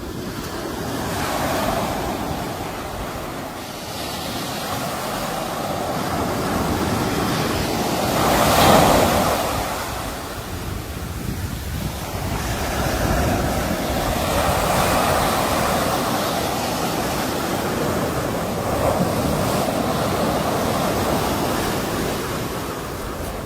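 Sea waves breaking and washing in a continuous rush that swells and ebbs, with the loudest wave breaking about nine seconds in.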